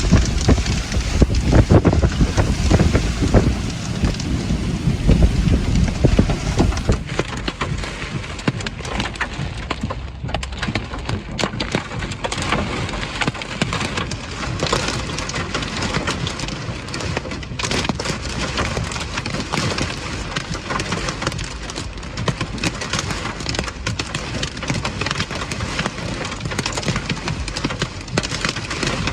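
Heavy rain in a severe thunderstorm, with wind buffeting the microphone for the first several seconds; after that a steady downpour with many sharp drop hits.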